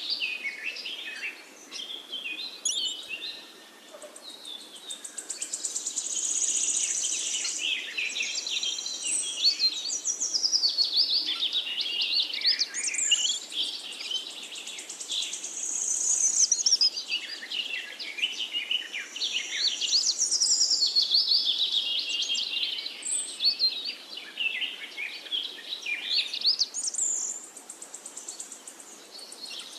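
Small birds chirping and chattering continuously, several at once, in quick high warbles and trills that rise and fall, with a brief lull about four seconds in and another near the end.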